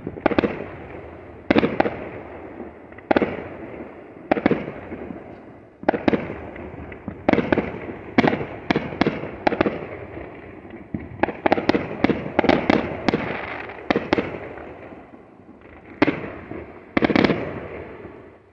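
Aerial firework shells bursting in an irregular series of loud booms, each followed by an echoing tail, coming thick and fast in a flurry a little past halfway, with a last pair of bangs about a second before the end.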